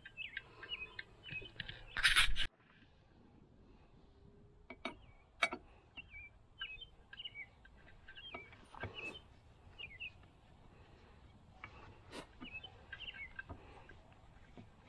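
Small birds chirping in short, repeated calls throughout, with a few sharp clicks. A brief loud noise about two seconds in cuts off suddenly.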